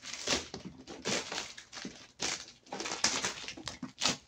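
Plastic parcel wrapping and packing tape crinkling and tearing in irregular bursts as a taped courier box is pulled open by hand.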